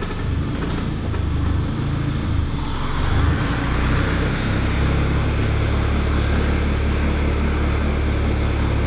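Audi A3's engine running at idle, a steady low hum that grows a little louder and fuller about three seconds in.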